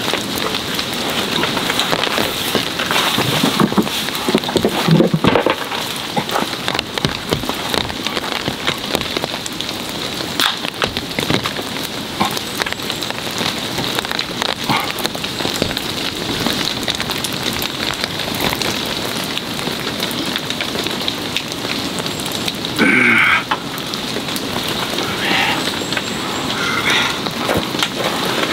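Heavy rain pattering steadily on a tarp overhead, dense with fine drips and taps, with a brief louder sound about three-quarters of the way through.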